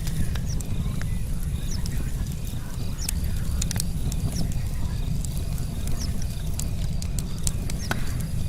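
Wood campfire crackling, with irregular sharp pops and snaps from the burning logs over a steady low rumble of the flames. A faint, steady high chirring of crickets runs underneath.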